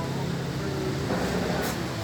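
Motorcycle engine running steadily, its exhaust tuned for a dry, snoring ('garing ngorok') note.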